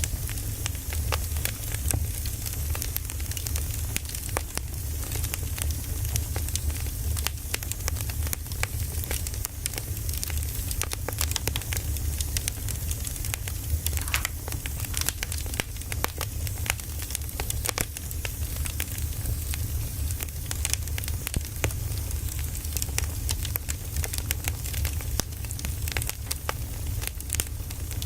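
Firewood burning with a steady low rumble and constant irregular crackling and popping.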